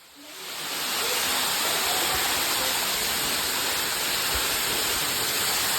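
Falling water rushing close by, a steady hiss that swells up over the first second and then holds level.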